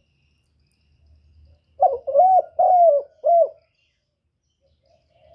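A bird cooing: a phrase of four low, arched notes starting about two seconds in.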